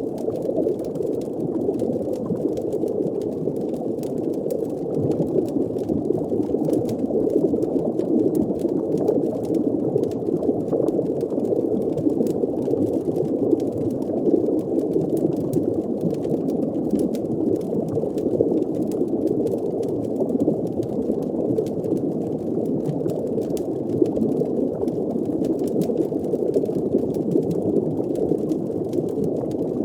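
Muffled underwater ambience: a steady low rush of water with bubbling, and faint crackles from a fire above it.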